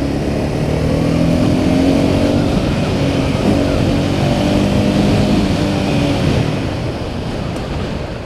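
Honda CBR300R's single-cylinder engine pulling under acceleration, its pitch climbing, dropping with a gear change about three and a half seconds in, then climbing again before easing off near the end.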